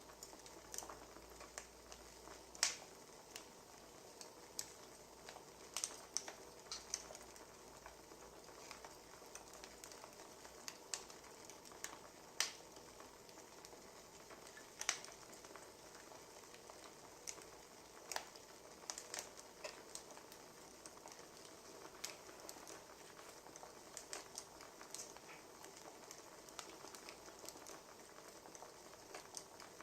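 Firewood burning, crackling: a soft steady hiss with irregular sharp pops and snaps, several every few seconds.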